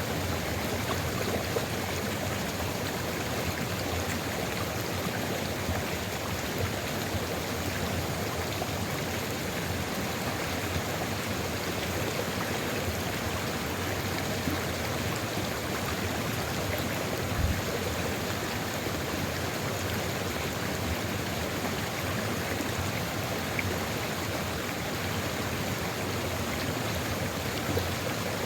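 Sulfur river flowing steadily, an even rush of running water, with one brief low thump about two-thirds of the way in.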